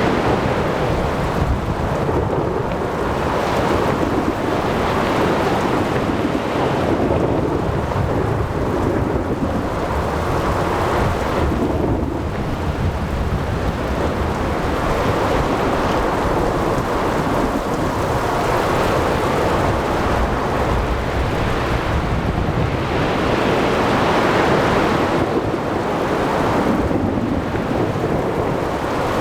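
Ocean thunderstorm ambience: steady heavy rain, wind and breaking waves under a low rolling rumble of thunder. The noise swells and eases every few seconds, with no sharp cracks.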